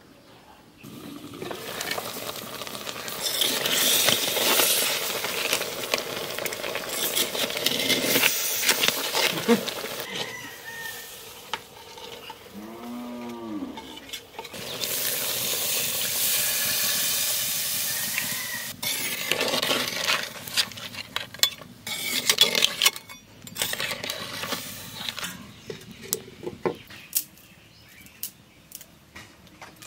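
Crab curry sizzling in a clay pot over a wood fire, stirred with a metal spoon that scrapes and clinks against the pot. The sizzling comes in long loud stretches with quieter gaps between them.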